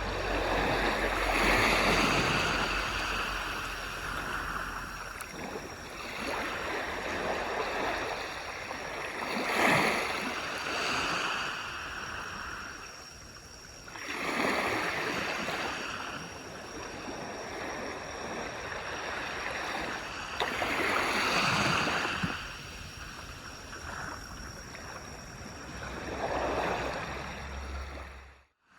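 Sea waves washing onto a beach: a steady surf wash that swells into a louder breaking surge every five to seven seconds, about five times, and cuts out for a moment near the end.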